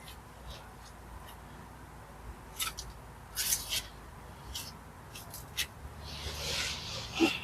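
Mortar and stone being worked by hand: scattered short scrapes and clicks of a tool on wet mortar and stone, with a longer scrape near the end.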